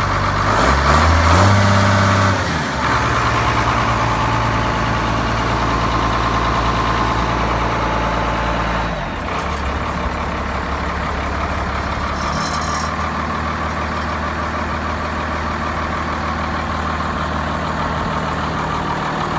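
Case MX135 tractor's diesel engine running. Its revs rise briefly near the start, then it settles to a steady run, and the note drops about nine seconds in.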